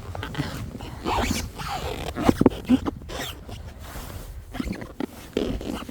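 Irregular rasping and crunching of packed snow in quick strokes, loudest in a cluster a second or two in.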